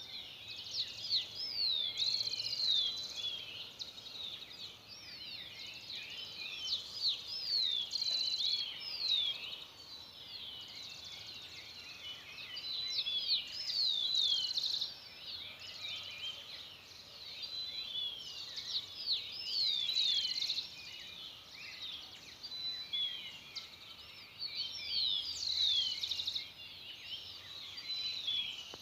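Dawn chorus: many small birds calling and singing at once, a dense tangle of short high chirps and quick rising and falling whistles, swelling and easing every few seconds.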